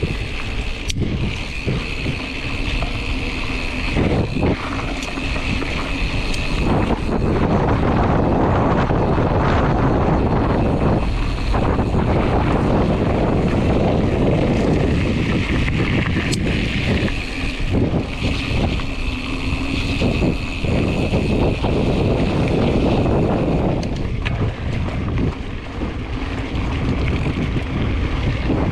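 Mountain bike riding on a dirt trail: wind buffeting the microphone over the rumble of tyres rolling on the ground, with a few knocks from bumps.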